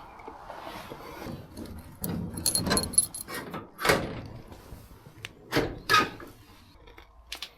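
Keys jangling and a metal shed door being unlocked and handled: a run of clinks, rattles and sharp knocks, the loudest about three, four and six seconds in.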